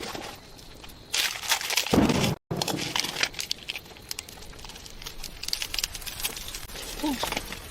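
Crackling, rustling and scattered clicks, with a louder rustle about a second in that cuts off abruptly, and a short chirp-like glide near the end.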